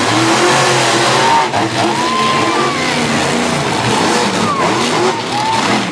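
Monster truck engines running hard at full throttle as the trucks race, with voices shouting over them.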